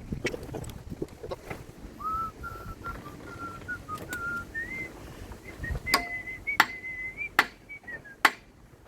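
A person whistling a wandering tune, the pitch stepping up and down, while metal tools clink and knock against engine parts every second or so.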